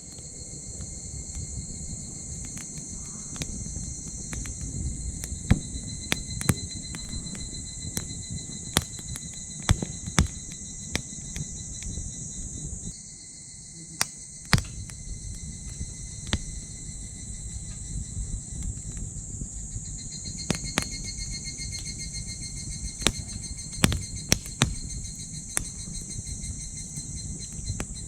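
Wood fire crackling in a small titanium wood stove, with sharp pops scattered irregularly throughout, over a steady high chirring of insects that stops for about a second near the middle.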